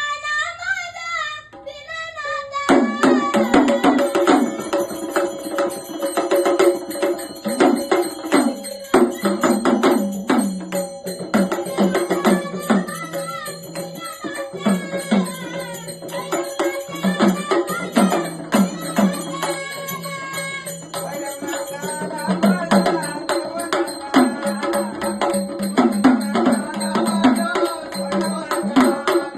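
Marathi traditional devotional folk music: a child's sung phrase ends about two seconds in, then an instrumental passage of drums and rattling percussion plays over a steady held tone.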